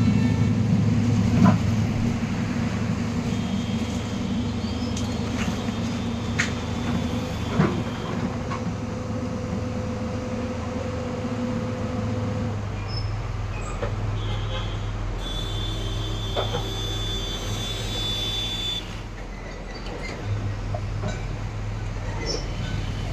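Heavy demolition machine's diesel engine running steadily, with a few sharp knocks in the first several seconds and a thin high whine for a few seconds past the middle.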